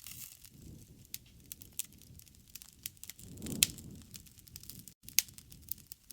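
Campfire wood crackling, with irregular sharp pops over a low rumble of burning. The loudest pop and a swell of rumble come about three and a half seconds in.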